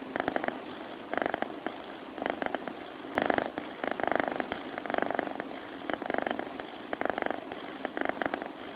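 Cat snoring in its sleep: a pulsing, purr-like sound with each breath, about once a second.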